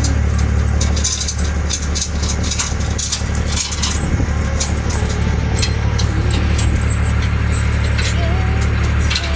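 A large engine running steadily at idle, a constant low hum, with scattered light clicks and rattles over it.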